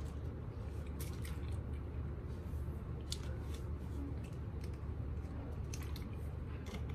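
Chewing and wet mouth sounds, with scattered soft clicks and squishes, then a plastic water bottle handled and drunk from near the end, over a steady low hum.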